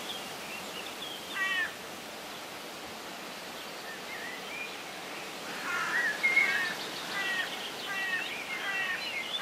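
Birds calling outdoors: short chirping calls, once about a second and a half in and then in a busier run over the last few seconds, over a steady background hiss.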